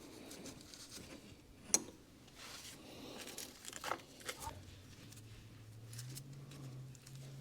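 Faint hand work with tools and parts: scattered small clicks and rustling, the sharpest click a little under two seconds in. A low steady hum comes in about halfway and rises slightly in pitch.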